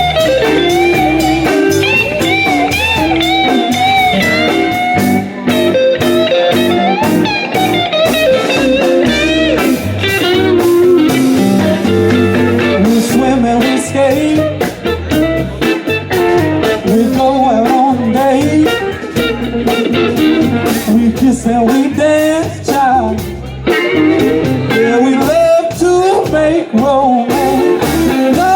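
A live band playing blues-rock: a lead electric guitar bending notes over bass and steady drums.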